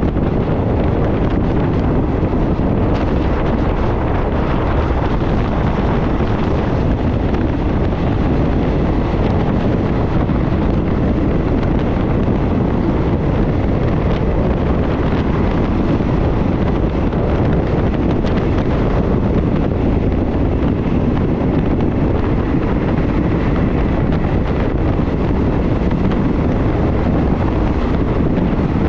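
Steady rush of wind on the microphone at a moving train's window, with the train's running noise underneath.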